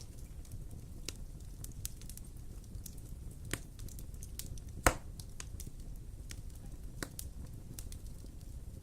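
Wood fire in a fireplace crackling: scattered sharp pops and snaps over a low, steady rumble of the flames, with one loud pop about five seconds in.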